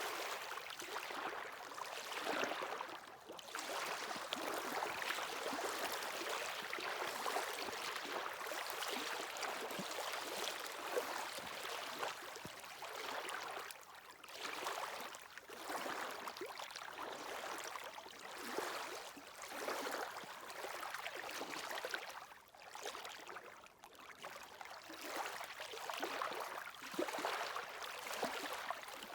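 Sea waves washing onto the shore, a hissing rush of water that swells and eases every few seconds.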